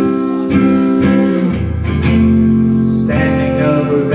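Live band music between sung lines: guitar chords ringing out, with a deep low bass note coming in about a second and a half in.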